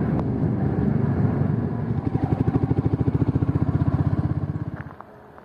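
Motorcycle engine running, settling about two seconds in into an idle with a rapid, even pulsing beat, then stopping just before the end.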